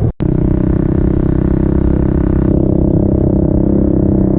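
Pit bike engine running at a steady speed while riding, with wind rushing over the microphone for the first two and a half seconds.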